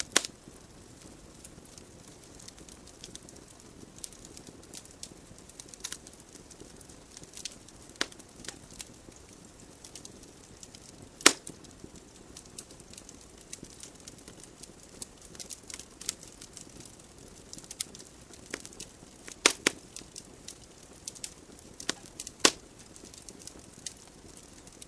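Wood fire burning in a fireplace: irregular crackles and sharp pops of burning logs over a soft steady hiss of flames, with a few louder snaps about 11, 19 and 22 seconds in.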